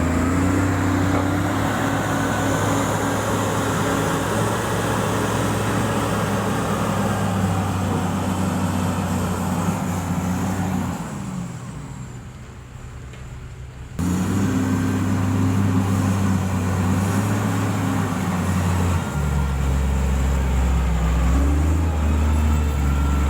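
Diesel engine of heavy road-repair equipment running steadily. It fades about eleven seconds in, comes back abruptly about three seconds later, and settles to a lower pitch near the end.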